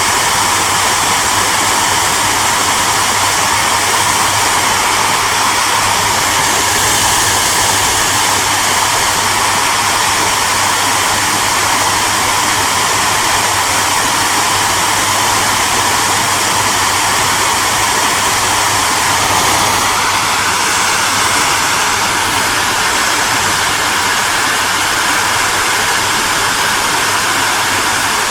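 Hair dryer running steadily: a loud, even rush of blown air over a low motor hum, with a faint tone that steps up slightly about twenty seconds in.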